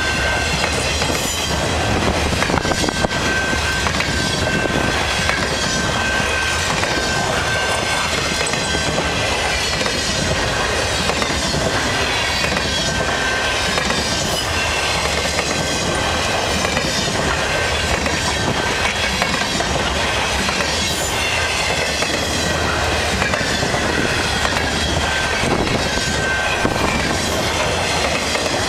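Intermodal freight cars carrying highway trailers rolling steadily past at close range, their wheels clattering over the rail joints, with a steady high-pitched wheel squeal held throughout.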